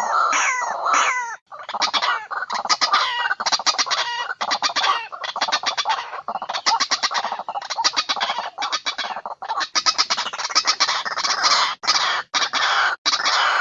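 White-breasted waterhen (ruak-ruak) calls, recorded for use as a bird-trapping lure. A few falling notes come first, then after a short break fast runs of harsh repeated notes with brief gaps between them.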